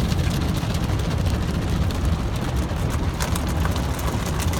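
Automatic car wash heard from inside the car's cabin: a steady low rumble, with water spray and brushes pattering and ticking against the car body.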